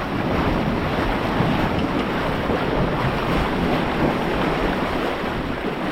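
Steady rush of sea water around a swimming horse, mixed with wind buffeting the microphone.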